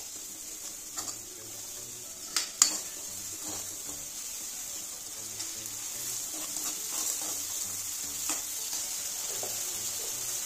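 Onion and spice masala sizzling in oil in a kadhai while a steel spoon stirs and scrapes through it, being roasted for sambhar. A few sharp knocks of the spoon against the pan, the loudest about two and a half seconds in.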